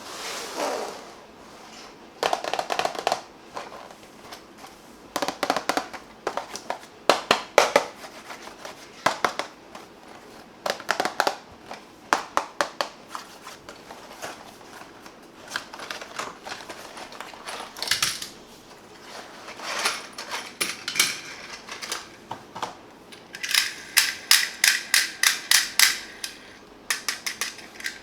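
Plastic toys being handled, with irregular clusters of sharp clicks and clacks. Near the end comes a quicker run of small, even clicks, like a little toy mechanism or ratchet turning.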